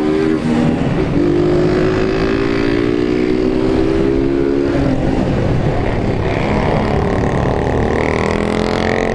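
Motorcycle engines on the move, most of them Honda 160 cc singles, holding a steady speed and then rising in pitch over the last two seconds as the throttle opens, over a constant low rumble of wind and road.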